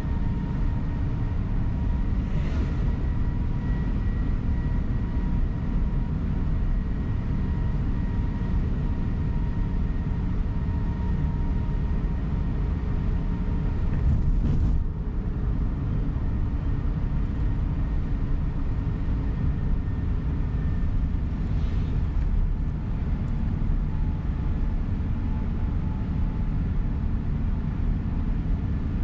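Tour coach on the move, heard from inside the cabin: a steady engine and road rumble with faint steady whining tones, and a few brief disturbances.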